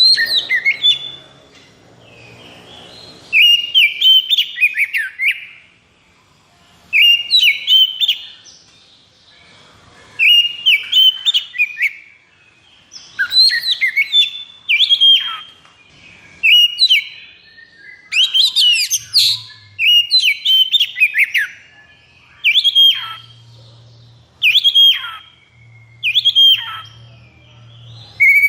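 Oriental magpie-robin (kacer) singing in a string of about a dozen loud, short phrases with brief pauses between them. Each phrase is a quick run of sweeping whistles, many of them falling steeply in pitch.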